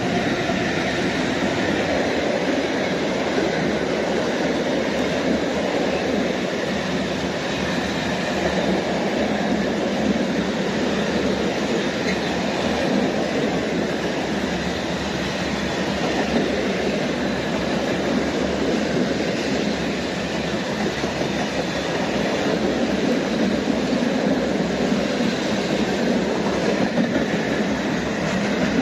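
A train hauled by the ET41-001 twin-unit electric locomotive passing close by. Its wheels on the rails make a loud, steady rolling rumble that holds for the whole stretch.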